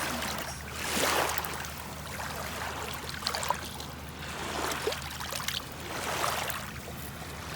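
Shallow water sloshing and trickling in soft, repeated splashes, about one every second or so.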